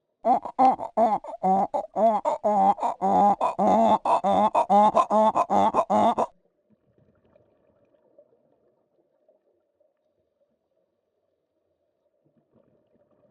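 Sea lion barking: a rapid run of loud, pitched barks, about three a second, that stops abruptly about six seconds in.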